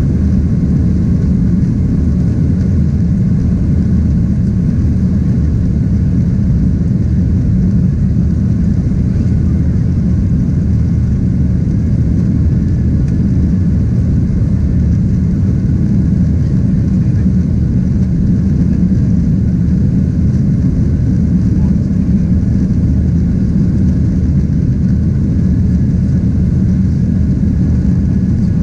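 Steady, loud low rumble of a Boeing 767-300ER's engines and airflow as heard from inside the cabin, holding an even level with no change in pitch.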